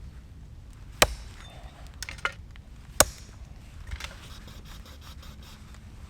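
Wood being struck: two sharp knocks about two seconds apart, with a few lighter taps between and after them.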